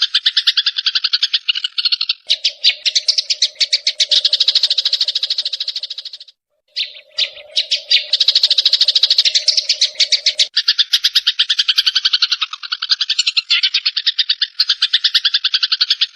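Eurasian tree sparrows (burung gereja) chattering as they fight, mixed with cililin calls: a fast, unbroken stream of sharp chirps, with a lower buzzing note under parts of it. There is a short break about six seconds in.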